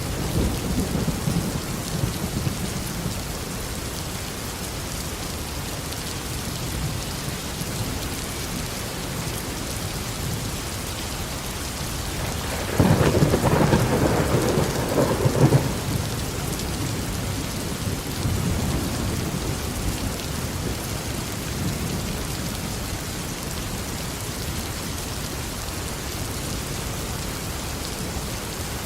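Heavy tropical rain falling steadily, with low thunder rumbling at the start and a loud, sudden clap of thunder about 13 seconds in that rumbles for about three seconds before fading into a softer rumble.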